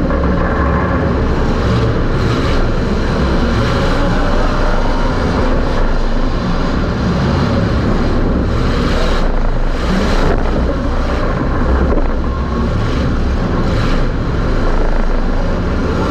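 Super Stock race car's engine running hard at racing speed, heard loud from inside the car, with steady rumble and wind noise over it.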